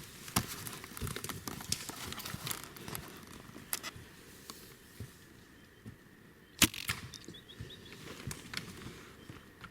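Footsteps crunching and rustling through dry leaves, twigs and scrub in an irregular run of crackles, with a sharp snap of a twig about two-thirds of the way through.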